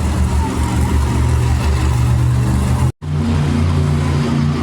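Monster truck engine running loud and steady at a high idle, with a deep low rumble. The sound cuts out completely for an instant about three seconds in, then picks up again.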